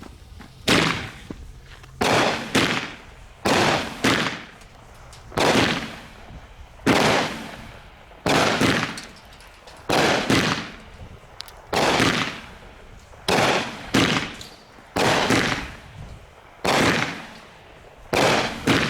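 A 16-shot, 200-gram consumer firework cake firing its shots one after another: sharp reports about a second apart, some in quick pairs, each trailing off briefly.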